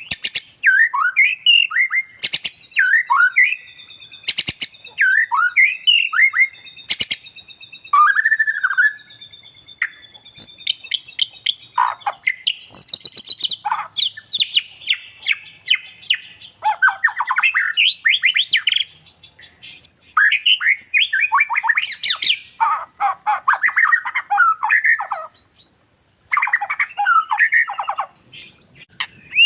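Oriental magpie-robin (kacer) singing loudly and without pause: short sweeping whistles and chirps, changing about a second in to dense, fast rattling phrases in the second half. A 'gacor' song recording of the kind played as a provoking track (pancingan) to get other magpie-robins singing.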